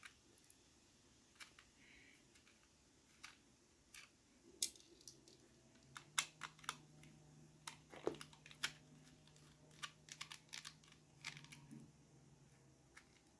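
Faint, irregular clicks and taps of a small screwdriver and plastic casing as a DT830D digital multimeter is taken apart, with a faint low hum underneath in the second half.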